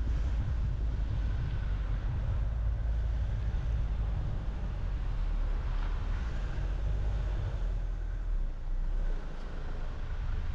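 Car driving on the road: a steady deep rumble of road and tyre noise with wind, swelling briefly midway and easing slightly in the low rumble near the end.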